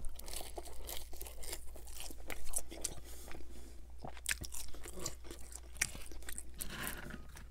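Close-miked chewing of French fries: irregular crunches and wet mouth sounds as they are bitten and chewed.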